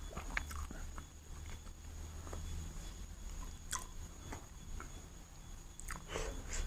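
Close-miked chewing of chicken biryani: soft wet smacks and small clicks of the mouth, a few louder ones near the end, over a steady low hum.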